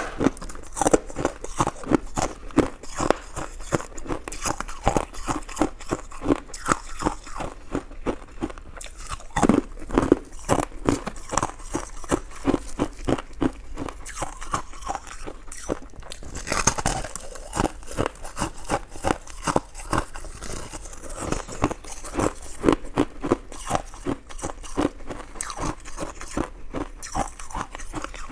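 Close-miked chewing and biting of coconut sticky rice cake: a continuous run of quick mouth clicks and smacks, several a second.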